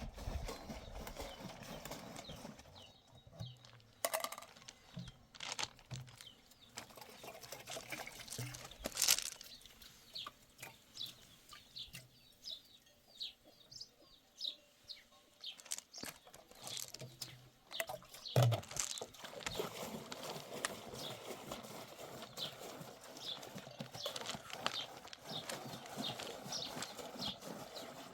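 A series of irregular knocks and clacks, with short high chirps in the middle stretch.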